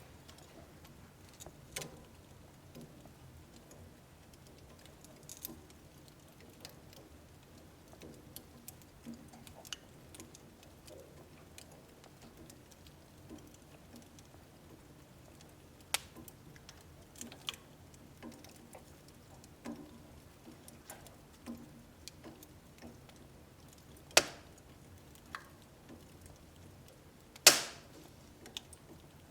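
Wood fire burning in a wood stove, crackling with scattered soft ticks and pops and two sharp loud snaps, one about four-fifths of the way through and a louder one near the end.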